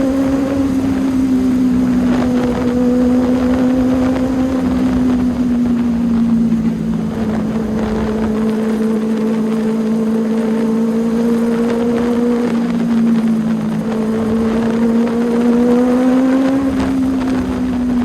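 Benelli 600i inline-four engine running at steady high revs with a loud, even note. The pitch sags slightly midway and climbs again near the end, with wind noise on the microphone.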